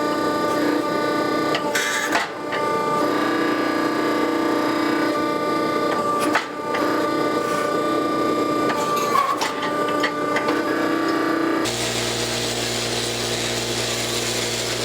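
A shop power tool running steadily with a pulsing drone, cutting abruptly to a different machine running with a low hum and hiss near the end.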